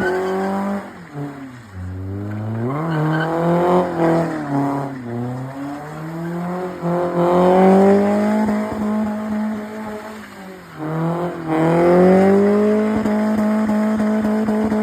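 A car engine revving hard as the car pulls away. The revs drop and climb several times, then are held high and steady near the end.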